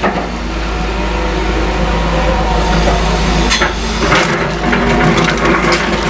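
Caterpillar excavator's diesel engine running steadily, with sharp cracks and crunches of demolition debris being broken, the loudest about three and a half seconds in.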